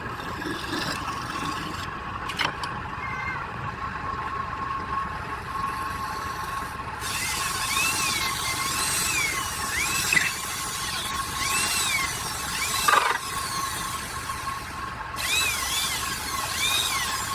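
Woodturning lathe running with a steady high whine while tools work the wood, with two sharp knocks. From about seven seconds in, repeated short squeals rise and fall in pitch.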